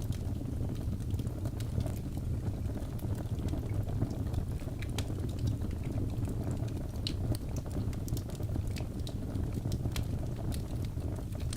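Logs burning in a fireplace: a steady low rumble of the flames with frequent sharp, irregular crackles and pops.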